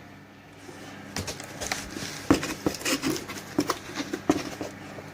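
Irregular clatter of light knocks and rustles as the new Makita grinder's box is handled and opened.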